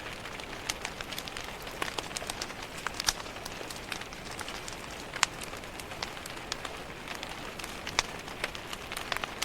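Steady rain hissing on a window, mixed with a wood fire crackling, with irregular sharp pops from the fire, the loudest about three, five and eight seconds in.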